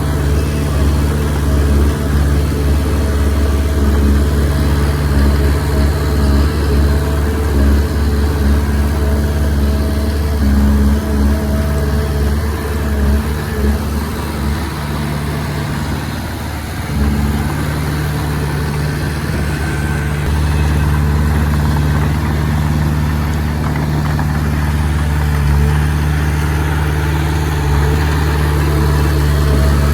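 Komatsu D20P bulldozer's diesel engine running steadily under work, easing off briefly about halfway through and then picking up again.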